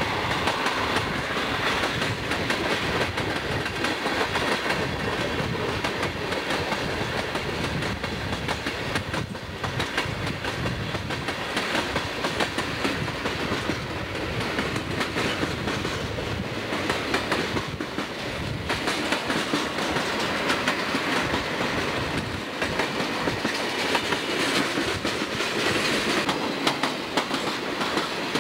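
Freight train of tank cars rolling steadily past close by: a continuous rumble of steel wheels on rail, with repeated clicking as the wheels cross rail joints.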